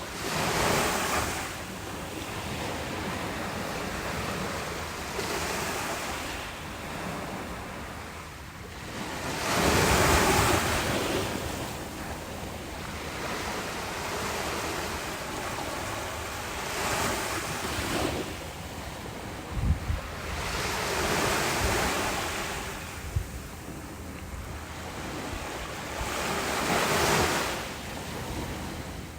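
Ocean waves breaking and washing up a beach, swelling and fading every few seconds, with the biggest break about ten seconds in. Wind buffets the microphone, giving a couple of short low thumps in the second half.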